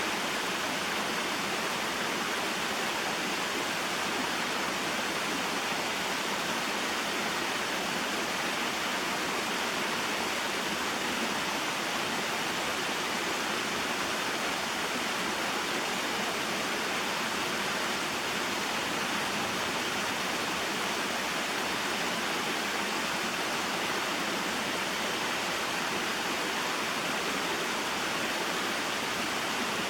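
Small waterfall and mountain stream flowing steadily: an even, unbroken hiss of falling and running water with little low rumble.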